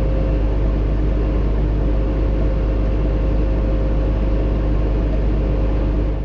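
Tractor engine running at a steady speed: a constant low rumble with a steady hum, cutting off suddenly at the end.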